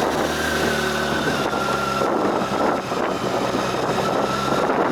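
A vehicle's engine running while driving along a road, with steady road and wind noise; the low engine hum drops away about halfway through.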